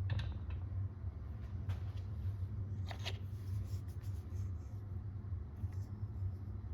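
A few light clicks and taps from small objects being handled, spaced a second or more apart, over a steady low hum.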